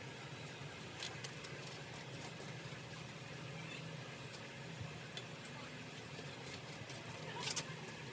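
A few sharp clicks of a torque wrench on the cylinder nuts, a pair about a second in and a louder pair near the end, over a low steady hum.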